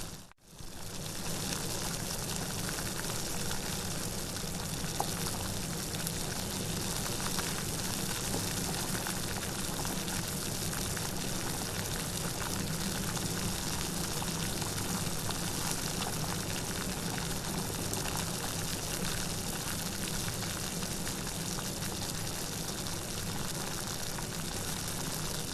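Steady heavy rain, an even hiss of falling water. It drops out abruptly just after the start and swells back within about a second.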